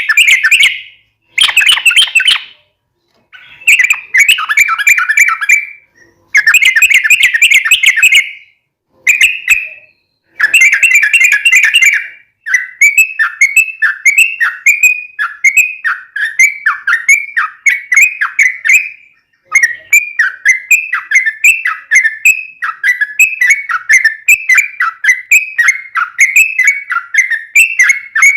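Yellow-vented bulbul (trucuk) singing loudly, with bursts of bubbly chattering phrases split by short pauses, then from about twelve seconds in a long unbroken run of quick falling notes, several a second.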